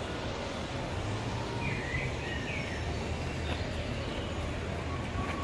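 Outdoor ambience: a steady low background rumble, with a few short bird chirps about two seconds in and again near the end.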